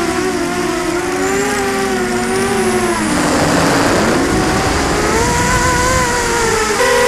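Brushless motors and propellers of a 250-size FPV racing quadcopter whining in flight, the pitch wavering with the throttle. About three seconds in the pitch drops under a rush of noise, then climbs again and steps up sharply near the end.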